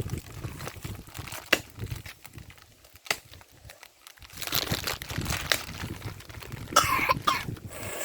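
Rustling of dry brush and wood being handled, with a couple of sharp snaps of sticks, then a short cough-like vocal sound near the end.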